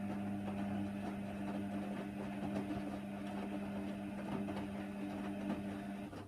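Hoover Nextra washer dryer turning its drum during a Cotton 60 wash: a steady motor hum with laundry and water churning. It stops near the end as the drum pauses, leaving only a low hum.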